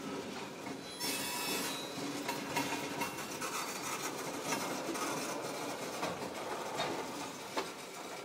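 Freight train of tank cars rolling slowly past, steel wheels on the rails, with faint high wheel squeals now and then. It grows louder about a second in.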